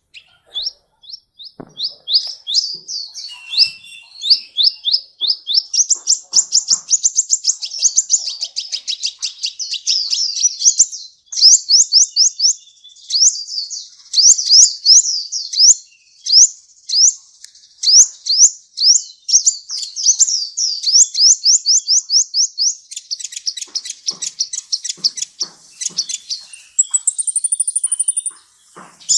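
Sunbird singing: fast, high chattering runs of sharp downslurred chips, many a second, broken by short pauses, with a thin high trill near the end.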